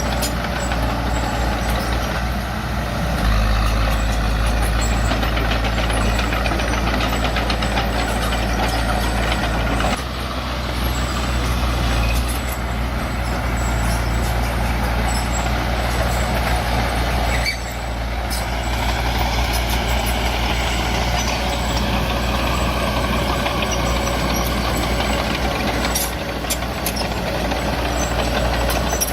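Bulldozer's diesel engine running steadily under load. The engine note gets heavier about three seconds in and eases briefly around ten and eighteen seconds, with a few sharp clanks near the end.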